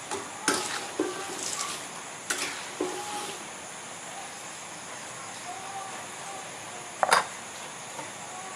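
Kitchen utensils knocking and scraping against cookware a few times over a steady hiss, with the sharpest clatter about seven seconds in.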